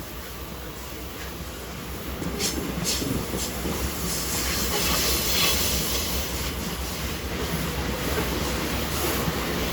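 Loaded ore train rolling past: steel wheels running on the rails over a low rumble, with clacks at the rail joints, growing louder about two seconds in.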